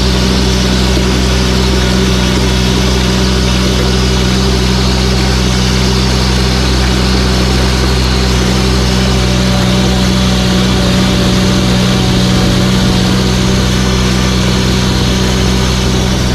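Tractor engine running steadily at a constant speed, with a slight change in its low tone about ten seconds in.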